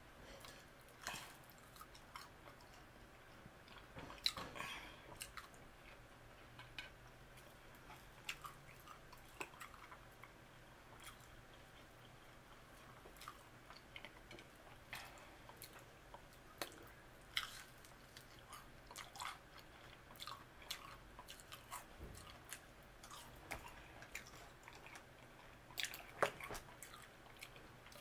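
Faint close-up chewing and mouth sounds of a person eating french fries dipped in barbecue sauce, with short clicks and smacks scattered throughout, the loudest about four seconds in and again near the end.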